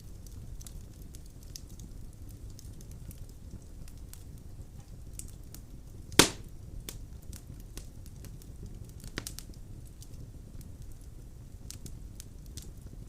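Wood burning in a fireplace: a low steady rumble of flames with many small crackles. One loud sharp pop about six seconds in, and a smaller one about three seconds later.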